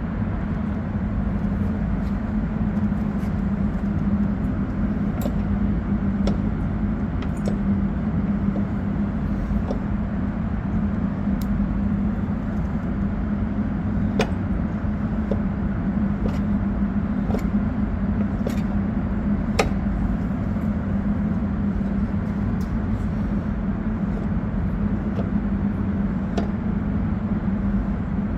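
Cutaway four-stroke engine model running: a steady low mechanical hum with scattered light clicks.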